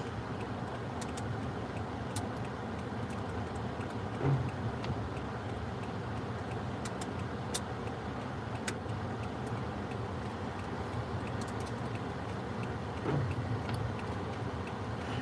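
Car heard from inside the cabin on the move: a steady low rumble of engine and road noise with scattered light ticks, and two brief louder swells, one about four seconds in and one near the end.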